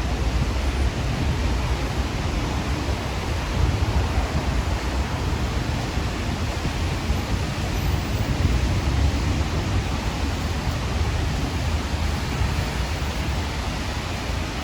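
Steady rain falling in city streets: an even hiss with a strong low rumble underneath.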